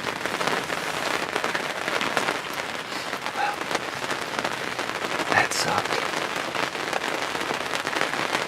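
Heavy rain pouring down, a dense steady hiss full of individual drop hits.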